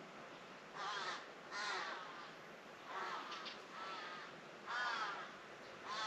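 A crow cawing, about six short calls spaced roughly a second apart.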